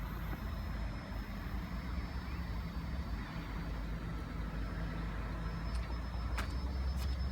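Steady low engine rumble with a couple of faint clicks near the end.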